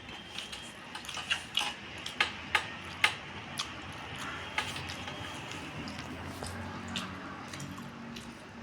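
Eating sounds: a run of sharp clicks and smacks of chewing and mouth noise, bunched between about one and five seconds in.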